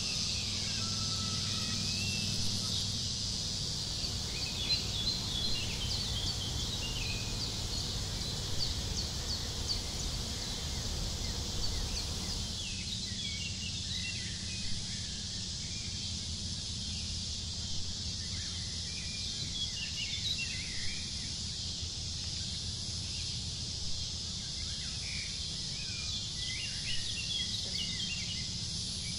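Outdoor ambience: many small birds chirping in short, scattered calls over a steady hiss and low rumble. The background noise drops abruptly about twelve seconds in, and the chirping carries on.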